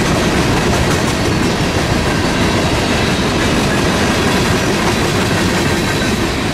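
Empty coal hopper cars of a freight train rolling past close by: a loud, steady rumble and clatter of steel wheels on the rails. The last car goes by near the end.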